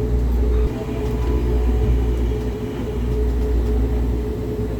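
Airport people-mover train running, a steady low rumble with a steady hum.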